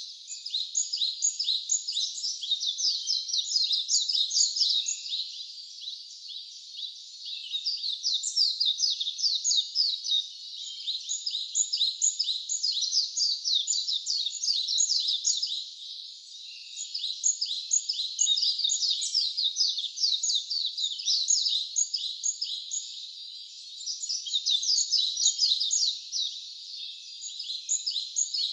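Wild birds chirping in a dense, continuous chorus of rapid high-pitched notes, with a few brief lulls.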